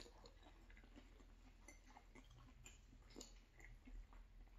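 Faint chewing of a mouthful of rigatoni, with soft scattered clicks of a fork against the plate and pasta.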